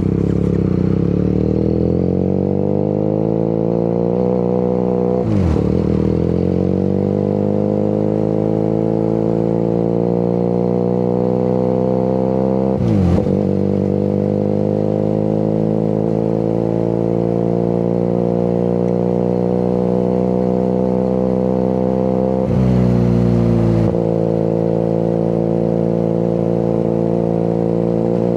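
QJ Motor SRK 400's parallel-twin engine and exhaust under way, the pitch climbing steadily as the bike accelerates. Three sharp drops in pitch, about five seconds in, near the middle and near the end, are upshifts, each followed by another steady climb.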